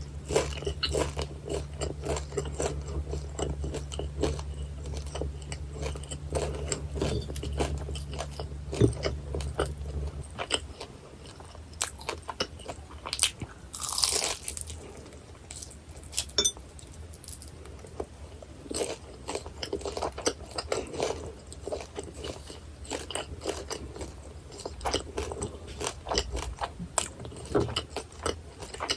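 Close-miked crunching bites and chewing of guobaorou, Chinese double-fried battered pork in sweet-and-sour sauce, crisp and chewy. There are many small crackling crunches. A low hum underneath stops about ten seconds in.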